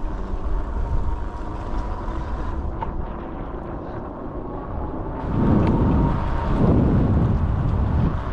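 Wind rushing over the microphone while riding an e-bike, with a faint steady whine underneath. About five seconds in the rumble gets louder and rougher for a few seconds.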